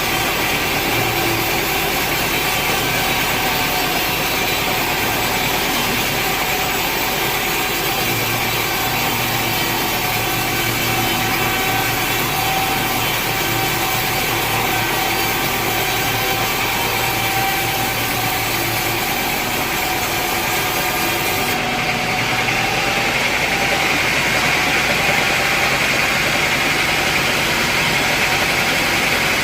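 Sawmill saw cutting through a large teak log, a steady loud machine noise with held tones. About 22 seconds in the sound changes: the high hiss drops away and a steadier engine-like hum takes over.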